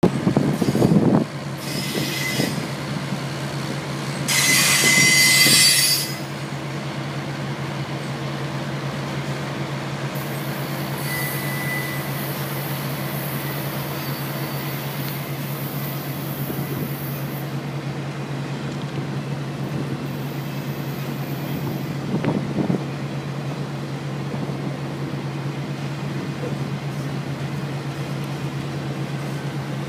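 Double-stack intermodal freight train's well cars rolling past with a steady rumble of wheels on rail, broken by high-pitched wheel squeals, the loudest from about four to six seconds in.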